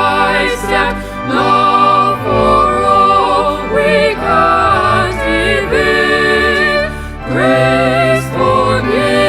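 Choral hymn singing: several voices holding long notes with vibrato over a steady low accompaniment.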